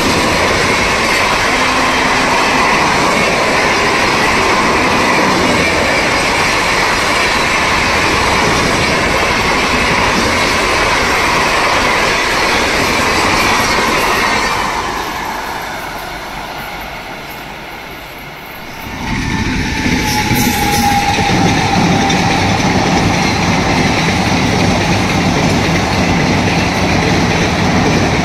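Indian Railways passenger train running loudly past on the track. Past the middle the noise dies away over a few seconds, then train noise comes back in abruptly and runs on loud and steady.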